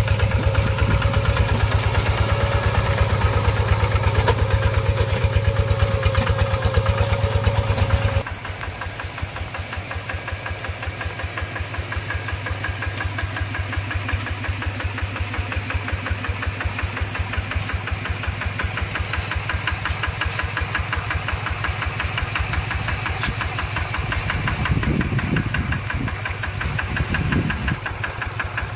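Single-cylinder diesel engine of a two-wheel hand tractor running steadily with a fast, even knocking beat. About eight seconds in it drops abruptly to a quieter, lower-throttle run.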